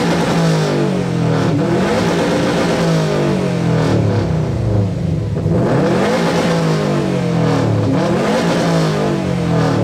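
A car's engine and exhaust revved hard, rising and falling in pitch over and over, very loud throughout. This is a sound-level competition run, measured at 112.4 dB.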